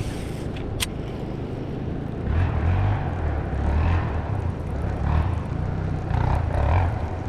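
ATV engines running and revving off in the distance, swelling and easing every second or so from about two seconds in, over wind rumble on the microphone. A single sharp click comes just under a second in.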